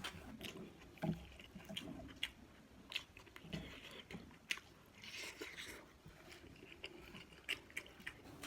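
A person chewing and biting food, with scattered soft mouth clicks and a longer crunchy, rustling stretch about five seconds in.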